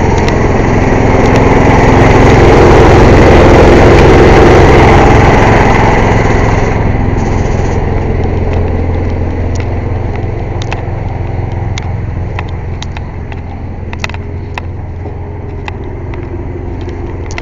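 Engine-driven air compressor running loud and steady, easing off after about six seconds, with sharp clicks scattered through the later part.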